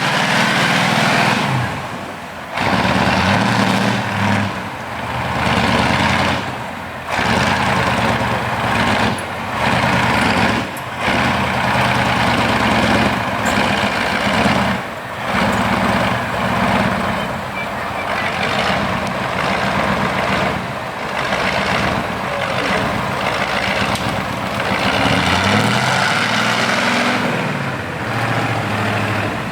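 Heavy off-road trial truck engine revving hard and easing off again and again as the truck works through the course, with the pitch climbing and falling.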